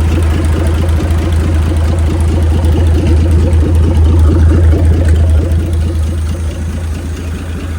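Freshly overhauled Chris-Craft Model W six-cylinder marine engine, a marinized Hercules WXLD, running steadily at low speed; it gets a little louder in the middle and eases off slightly near the end.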